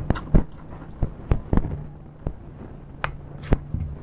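Close-up chewing of fried giant cuttlefish: a string of sharp, irregular wet smacks and crunches from the mouth, about a dozen in four seconds.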